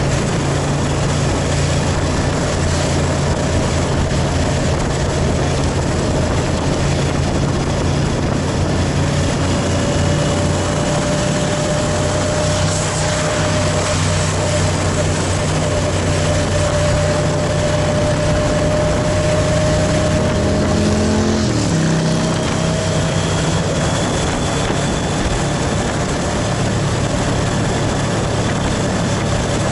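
Yamaha motorcycle engine running steadily under way, with wind hiss; the engine note drops about two-thirds of the way through, then settles again.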